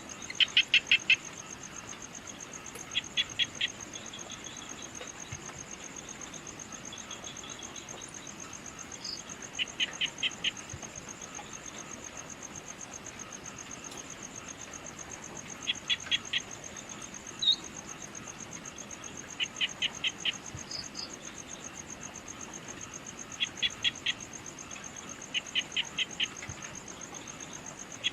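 Evening nature ambience: a steady high-pitched insect trill runs throughout. Over it, a louder call of four or five quick notes repeats every three to four seconds, with a few single short chirps in between.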